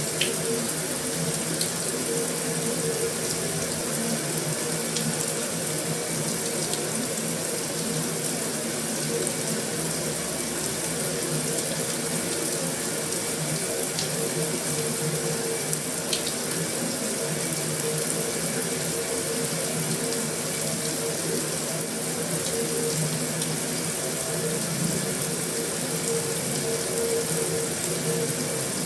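Heavy rain falling steadily on a metal roof: an even, unbroken hiss with a faint steady hum underneath and a few faint sharper ticks.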